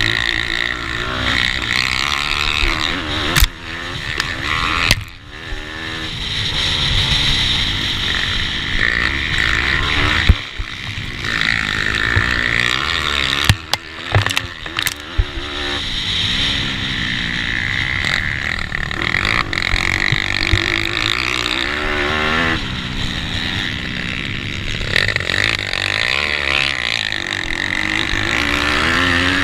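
Racing pitbikes: small single-cylinder four-stroke engines revving up hard and dropping off again and again through the corners, with other bikes' engines close by. A few sharp knocks cut through now and then.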